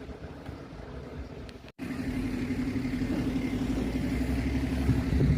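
A motor vehicle's engine running close by with a steady, fast-pulsing hum. The sound cuts out for an instant a little under two seconds in and comes back louder.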